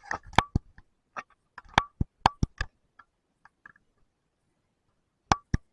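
A series of short, sharp clicks and taps, irregular: a quick cluster in the first three seconds and two more near the end.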